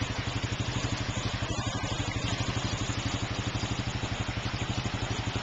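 Four-wheeler (ATV) engine idling with a steady, even pulse.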